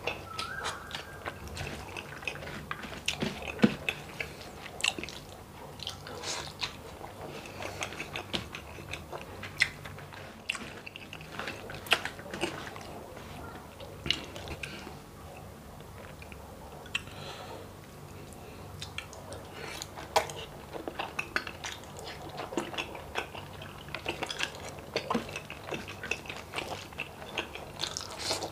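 Close-miked chewing of rice and beef balbacua eaten by hand, with many short mouth clicks scattered throughout.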